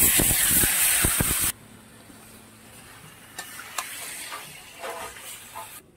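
Marinated chicken and potatoes sizzling loudly as they are tipped into hot oil in a kadai; the sizzle cuts off abruptly about a second and a half in. After that a metal spatula stirs in the kadai, giving quieter scattered scrapes and clicks.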